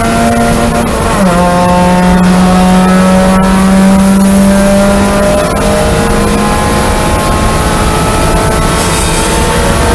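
Mazda Miata's four-cylinder engine pulling hard, heard from inside the cabin. About a second in, an upshift drops the pitch, and then the engine note climbs steadily as the car accelerates through the next gear.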